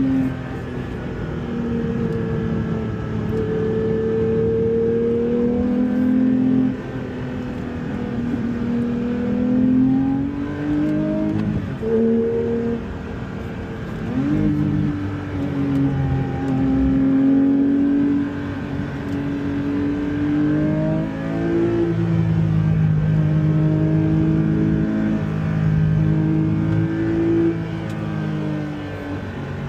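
Porsche 911 flat-six engine being driven hard, its note holding, climbing and dropping as it revs through the gears, with a couple of quick sweeps up and sudden drops in pitch around the middle.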